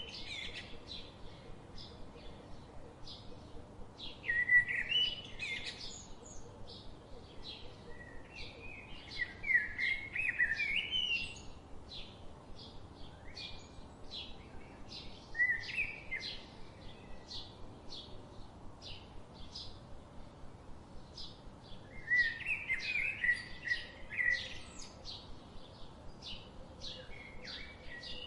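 Birds singing: one bird gives warbling song phrases every few seconds, over a steady series of short high chirps about once a second from another.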